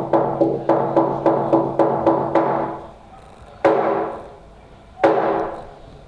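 Music built on a struck percussion instrument: a run of even strikes about three a second over sustained pitched tones, then three single strikes spaced well apart, each ringing and fading.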